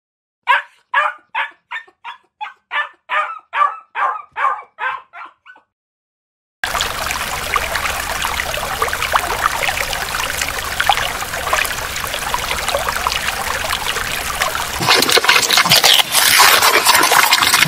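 A small dog barking in a quick run of about a dozen sharp yaps, then a steady wash of splashing water from a crowd of koi thrashing at the surface.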